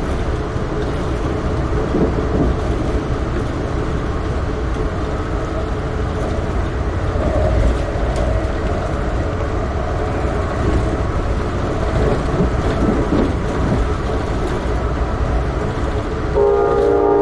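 Amtrak Keystone passenger train running at speed, a steady rumble and rail noise heard from aboard. Near the end the train's horn starts, a loud multi-note chord held steady.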